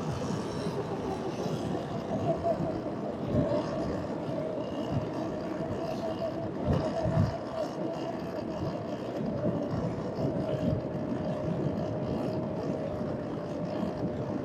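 Electric dirt bike riding on sand: the motor's steady whine sinking slowly in pitch, under heavy wind buffeting on the microphone.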